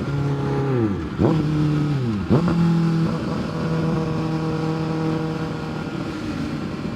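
Kawasaki ZX-6R 636 inline-four engine heard from the saddle while riding: the revs fall as the bike slows, jump sharply and briefly twice as it shifts down, then hold steady at a lower note.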